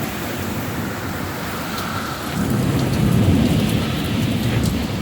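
Heavy rain pouring steadily, with a low rumble of thunder that swells about two and a half seconds in and eases off near the end. Scattered sharp ticks of raindrops striking close by.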